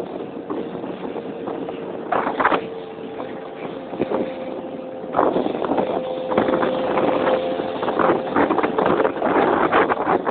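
Keeway Hurricane scooter engine running steadily on the move, its pitch rising slightly about four seconds in. Gusts of wind buffet the microphone, loudest about two seconds in and through the second half.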